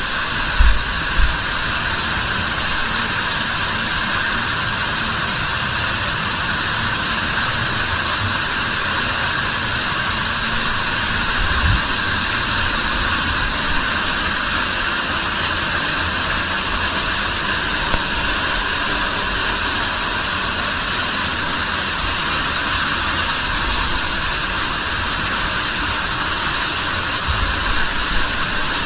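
Cave waterfall swollen by several days of rain, falling heavily: a loud, steady rush of water, with a few low thumps near the start and near the end.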